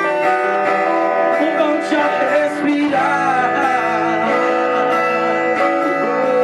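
A live band playing a worship song: guitar over sustained chords, with a singing voice carrying a wavering melody from about three seconds in.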